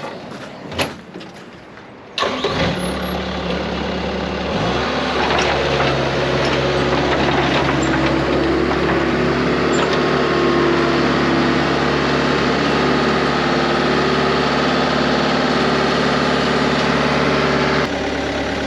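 A few metal clanks, then a truck engine starts about two seconds in, speeds up over the next few seconds and runs steadily, dropping to a lower, quieter run near the end.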